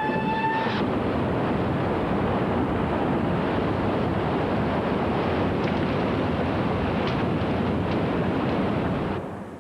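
A siren's rising wail that stops under a second in, then a steady rushing noise that fades out near the end.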